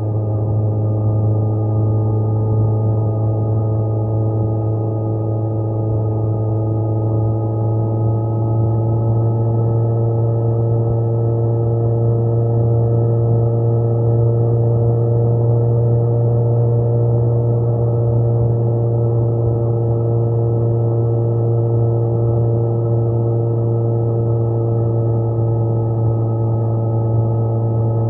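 Kawasaki Z900 inline-four engine droning at a steady cruising speed, its pitch creeping slightly upward and then holding.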